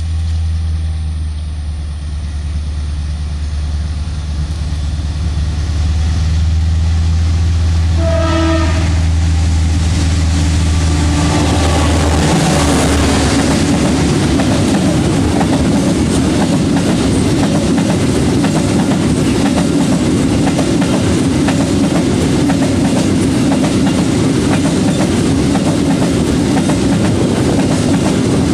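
CC 202 diesel-electric locomotive approaching with its engine running in a deep hum, sounding one horn blast of about a second around a third of the way in. From about halfway through, its train of empty pulp wagons rolls past close by with a loud, steady wheel-on-rail rumble.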